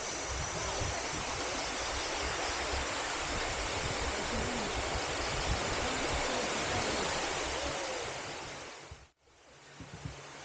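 Steady rush of water from the Telaga Tujuh waterfall cascade. Near the end it fades and cuts off abruptly, leaving gusts of wind buffeting the microphone.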